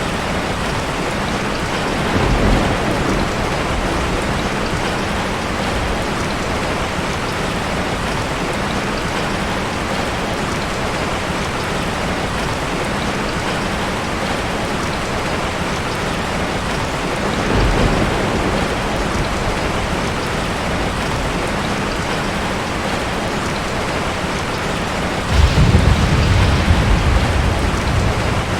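Steady rain falling and pattering on surfaces, with deep rumbles swelling up about two seconds in, again midway, and a louder, longer one near the end.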